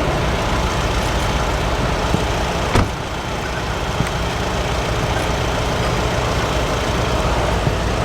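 Heavy-haulage truck's engine running steadily, with a single short knock about three seconds in.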